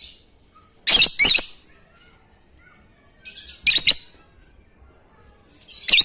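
Lovebird giving short, shrill chirping calls in separate bursts: two close together about a second in, another burst around four seconds, and one more near the end.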